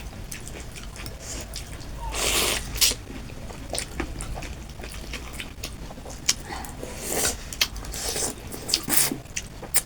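Close-miked eating of chicken noodle soup: short slurps of noodles and broth, the longest about two seconds in, with wet mouth sounds and small sharp clicks in between.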